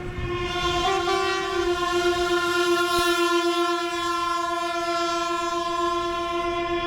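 Truck air horn sounded in one long, steady blast, with a second note briefly joining about a second in.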